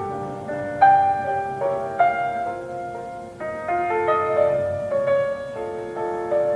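Piano music: a slow classical piece, single notes and chords struck about once a second and left to ring.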